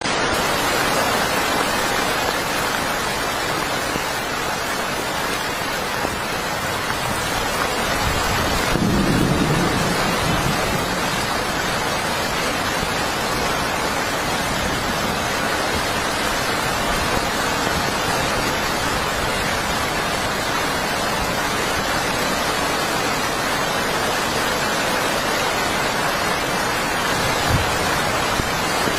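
Heavy rain falling steadily. A low rumble of thunder comes about eight seconds in and lasts a few seconds.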